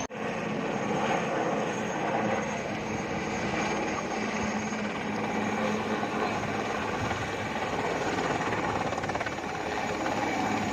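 A steady engine drone with a low hum, unbroken throughout.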